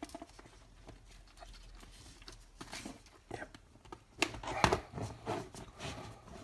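Scattered small clicks and taps of laptop parts being handled and fitted by hand, sparse at first, then louder and more frequent from about four seconds in.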